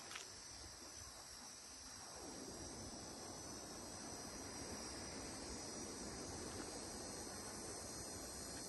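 Cicada singing: a steady high-pitched buzz, with a fuller, lower hiss joining in about two seconds in.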